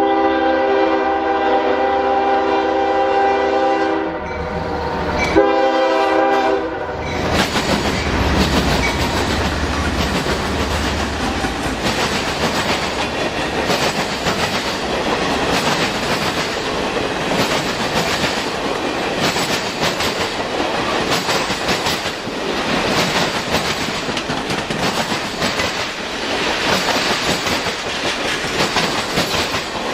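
Diesel locomotive air horn sounding a chord for about four seconds, then a second short blast, as the CSX ES40DC-led circus train passes. After that, the train's cars roll by, their wheels knocking over the rail joints in a steady run of noise.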